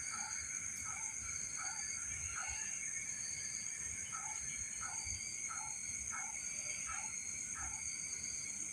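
Night chorus of insects: a steady high shrill from crickets or cicadas, with frogs calling over it in a repeated rhythm of about two calls a second.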